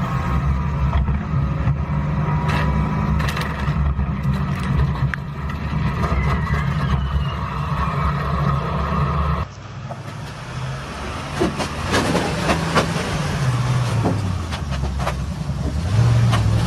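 Motor vehicle engine and road noise, a steady low drone. About nine and a half seconds in it cuts to another recording: road noise with scattered clicks and knocks.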